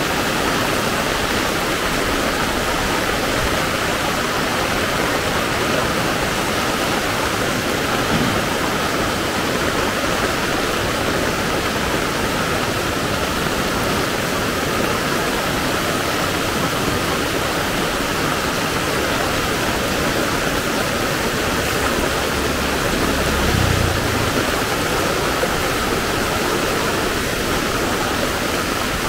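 Heavy rain falling steadily, a dense, even hiss. A brief low rumble comes about three-quarters of the way through.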